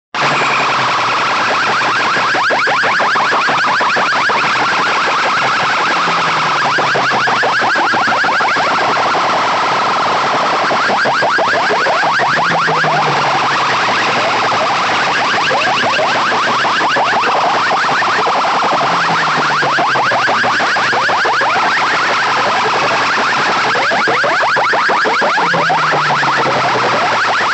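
Loud siren-like electronic warbling played through a competition DJ sound system, its tones repeating rapidly, with a low bass note sounding about every six or seven seconds.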